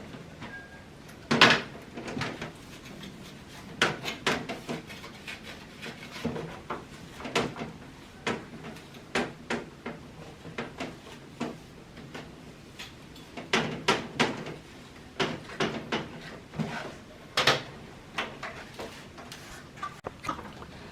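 Irregular clicks and knocks from a split-type air conditioner's plastic front cover being handled and wiped down, the loudest knock about a second and a half in.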